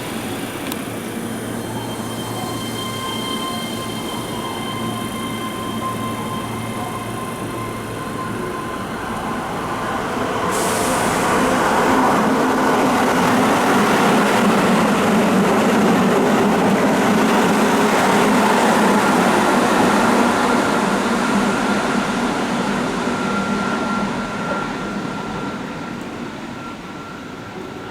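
Keihan electric train running through an elevated station on a curve: the rush of the train builds about ten seconds in, stays loud for around twelve seconds, then fades near the end. A thin high squeal from the wheels on the curve sounds in the later part.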